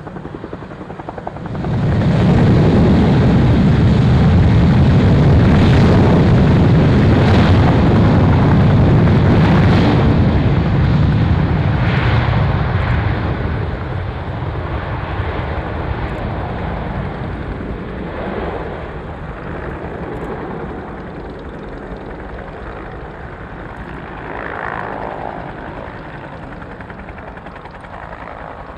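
Military aircraft taking off: engine noise rises sharply about a second and a half in, stays loud for about ten seconds, then fades slowly as it climbs away.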